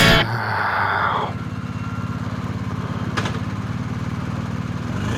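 BMW R1250GS boxer-twin engine running steadily at low revs. A hiss fades out about a second in, and a single sharp click comes about three seconds in.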